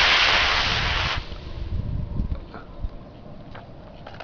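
Model rocket motor burning with a loud, steady hiss as the rocket climbs, cutting off about a second in when the motor burns out. Only a low rumble follows.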